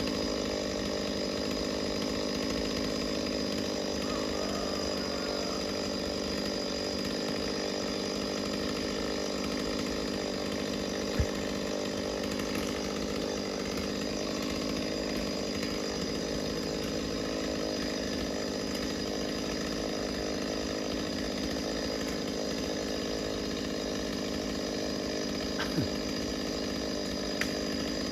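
Chainsaw running steadily at one constant pitch while cutting a large tree, with a few sharp clicks, one about eleven seconds in and two near the end.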